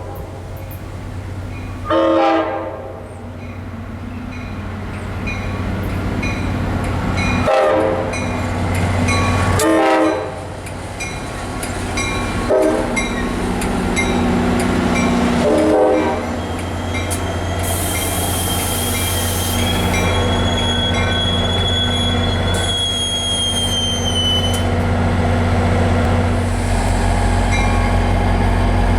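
A train horn sounds five short blasts for a grade crossing over the regular ringing of a crossing bell, while the train's low rumble builds. A high wheel squeal runs for several seconds in the middle as the train passes into the station.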